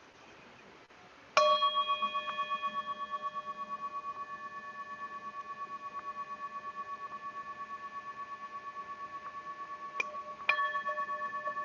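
A meditation singing bowl struck about a second and a half in, ringing on with a long, slowly fading tone that wavers in a fast pulse, then touched lightly and struck again near the end. The bell marks the close of the meditation sitting.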